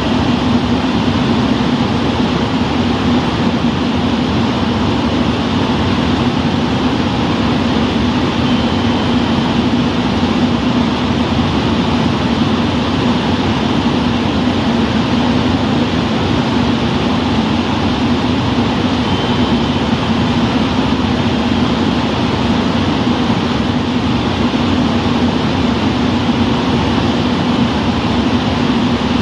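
Diesel railcar engine idling at a standstill: a steady, even drone with a constant low hum.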